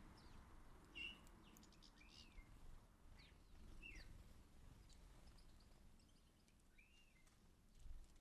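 Small garden birds at a seed feeder giving a few faint, separate chirps, with some light clicks. A soft low thump comes near the end.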